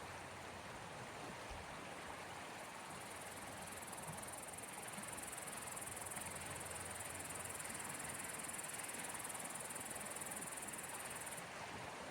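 Sea waves washing on the shore in a steady rush of noise. A high, even hiss joins in about four seconds in and cuts off suddenly near the end.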